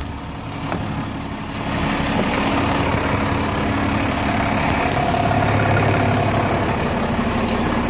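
Refrigerated truck idling with its Frigoblock fridge unit running: a steady engine and machinery hum with a thin high whine, growing louder about two seconds in.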